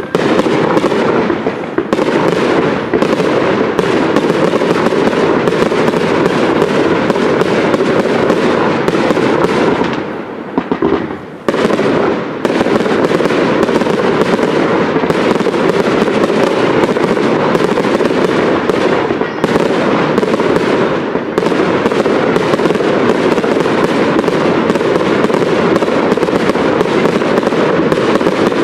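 Fireworks display firing a rapid, almost unbroken barrage of shells and comets: overlapping bangs and crackling, with a brief lull about ten seconds in before the barrage resumes.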